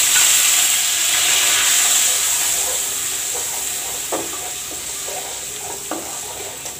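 Onion and garlic paste sizzling in hot oil in a metal karahi, a loud hiss that slowly dies down as the wet paste cooks. From about four seconds in, a metal spatula scrapes and taps against the pan as the paste is stirred.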